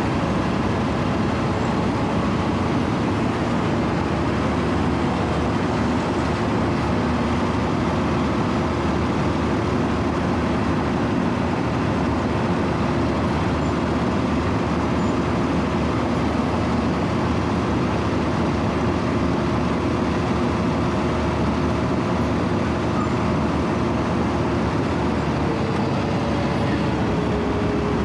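Diesel engine of a Wirtgen W 120 CFi cold milling machine running steadily as the machine travels, heard from the operator's platform.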